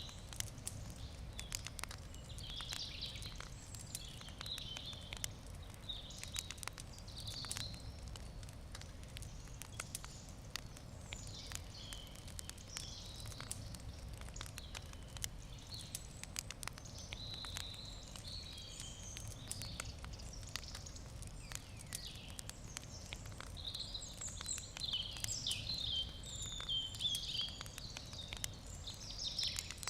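Wood campfire crackling, with frequent sharp pops. Birds sing in the background, most busily near the end.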